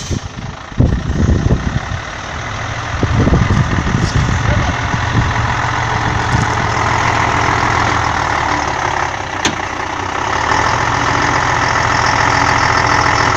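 Scania 112H 6x6 truck's diesel engine running hard under load while pulling a trailer out of deep loose dust, with irregular thumps and knocks in the first few seconds before it settles into a steady drone that grows a little louder near the end.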